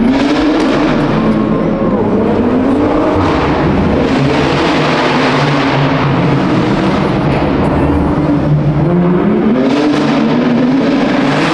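A car engine revving hard, its pitch climbing and falling several times, over a constant loud rush of noise.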